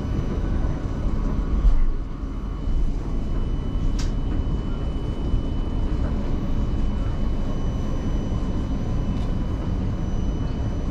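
Passenger train running, heard from inside the carriage: a steady low rumble of wheels on the track with a faint steady high whine, a louder bump about two seconds in and a sharp click about four seconds in.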